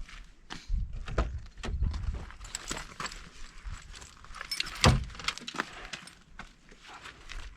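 Footsteps on a rocky desert trail, an irregular run of crunches and clicks, with one sharp knock about five seconds in.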